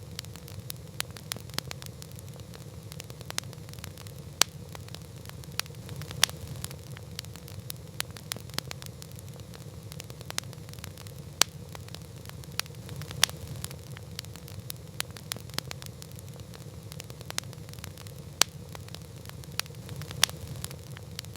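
Wood campfire burning, with irregular sharp crackles and pops several times a second and a louder snap every few seconds, over a steady low rumble.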